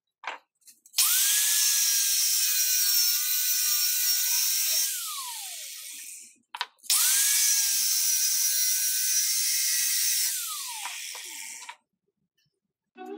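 Electric circular saw run twice, each time about five seconds. Each run starts with a click, the motor whine rises and holds over a loud hiss of the blade cutting wood, then falls in pitch as the saw winds down after the trigger is released.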